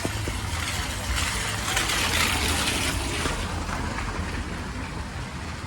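A vehicle passing on a wet road: tyre hiss swells about two seconds in and fades, over a low steady rumble of traffic.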